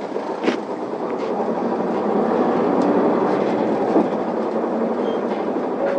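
Isuzu Erga city bus pulling away from a stop, heard from inside the cabin: the diesel engine and drivetrain running under load and growing louder about two seconds in. A sharp knock or rattle from the bus body about half a second in and another around four seconds.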